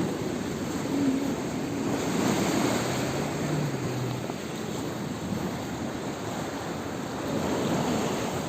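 Baltic Sea surf washing onto the beach, a steady rush of waves with wind on the microphone. A faint low hum shows briefly about three seconds in.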